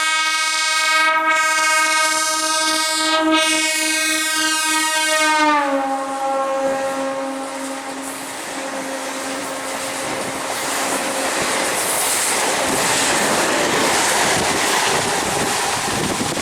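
Local train sounding a long, steady horn that drops in pitch about five and a half seconds in as the train passes. The horn then fades into the rushing noise and wheel clatter of the coaches going by at speed.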